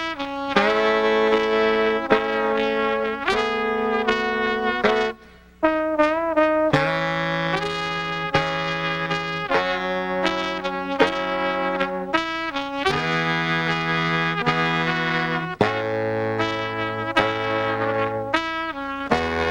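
Band playing a slow instrumental introduction of sustained horn chords that change every second or two, with a few sharp beats.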